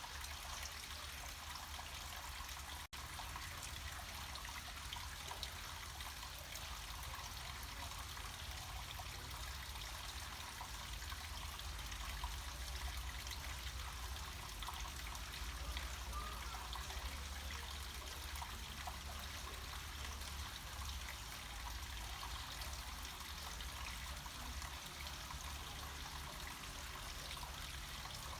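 Small mountain stream or cascade trickling and splashing steadily over rock, with a low rumble underneath. The sound cuts out for an instant about three seconds in.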